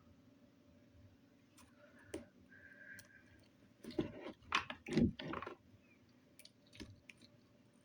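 Slime being squeezed and worked by hand, giving scattered small wet clicks and squelches, with a louder burst of squishing about four to five seconds in.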